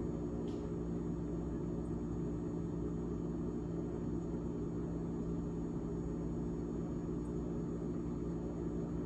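GE GTH18XCTZRBB refrigerator running with a steady hum made of several unchanging tones over a low rumble.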